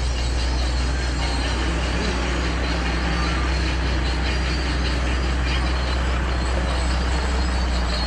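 A steady, low engine drone with a constant wash of noise over it.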